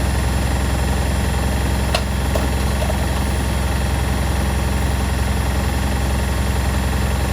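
Domestic washing machines and tumble dryers running together, a steady low machine hum. A couple of faint clicks come about two seconds in.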